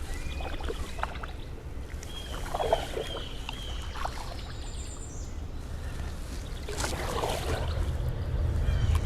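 Canoe paddle strokes swishing through the water, two of them about four seconds apart, over a low rumble of wind on the microphone. Between the strokes a bird calls a short run of repeated high notes.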